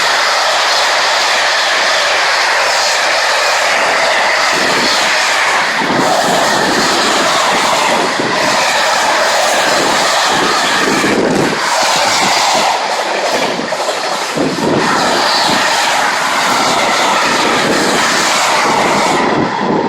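A train running through a station at speed without stopping: a loud, steady rush of wheels and air with rapid clattering over the rail, dropping off suddenly near the end as the last car goes by.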